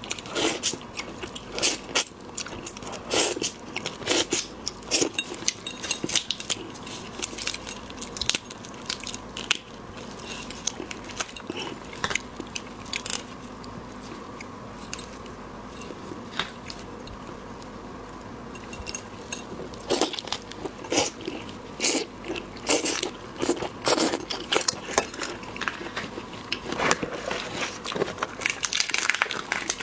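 A person biting and chewing seafood: sharp crunches and wet chewing sounds in quick succession. The crunches thin out to softer chewing midway, then come thick again near the end.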